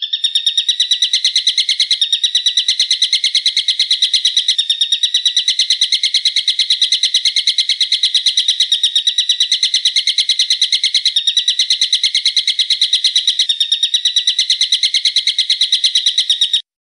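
Looped recording of a bird's call: one sharp note repeated fast and evenly, about eight times a second, without a break. It starts and stops abruptly.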